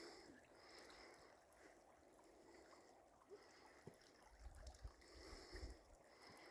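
Faint trickle of water from a spring, with a few low bumps about halfway through.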